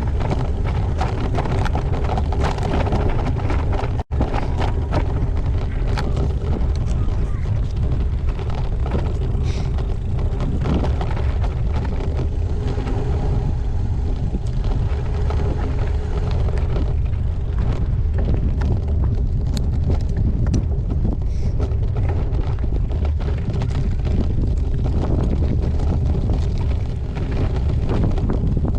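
Wind buffeting the microphone of a camera on a moving gravel bike, a loud steady rumble, with frequent small clicks and knocks from the bike. The sound cuts out for an instant about four seconds in.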